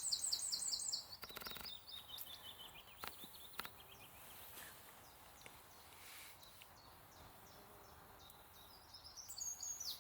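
Small songbirds singing: a fast high trill in the first second, then a run of notes stepping down in pitch, and more chirps near the end. A few faint clicks are also heard.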